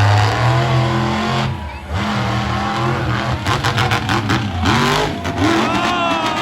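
Monster truck engine revving hard, its pitch climbing and falling with the throttle, with a brief drop in loudness just before the two-second mark.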